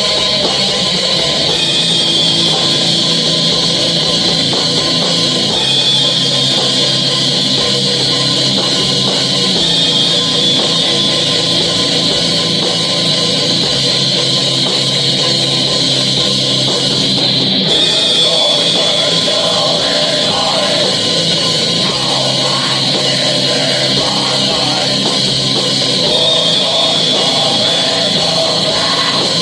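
Metal band playing a song in rehearsal: a dense wall of distorted guitars over drums, steady and loud without a break.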